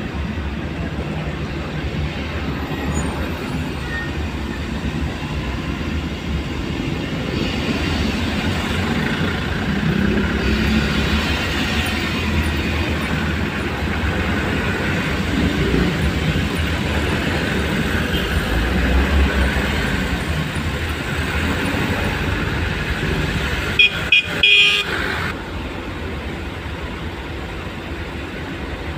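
Steady road traffic noise, with vehicle engines rumbling and passing. About 24 seconds in, a vehicle horn toots several times in quick succession.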